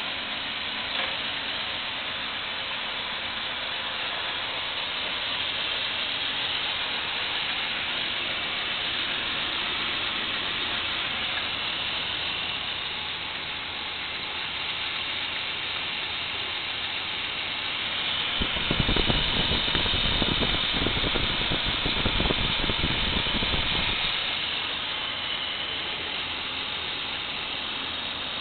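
1999 Dodge 5.9-litre 360 V8 running at idle, heard up close in the open engine bay as a steady rushing hiss. About two-thirds of the way through it gets louder and fuller for about five seconds, then settles back.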